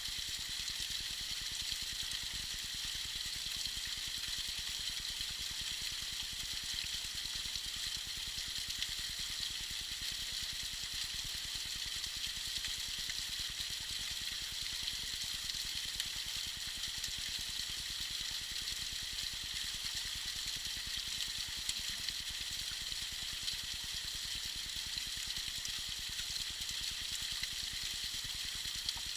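Tiny icy waterfall splashing steadily: an even, unbroken rush of falling water, heavy in the high end.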